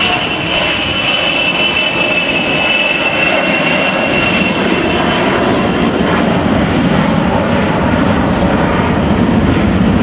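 Boeing E-3A Sentry AWACS flying past, its four TF33 turbofan jet engines running. A high whine falls slightly in pitch and fades over the first half while a deeper rumble builds and grows louder toward the end.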